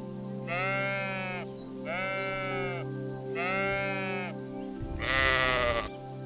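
Sheep bleating four times, each bleat about a second long with a rise and fall in pitch; the last, about five seconds in, is louder and harsher. Background music with a steady held chord runs underneath.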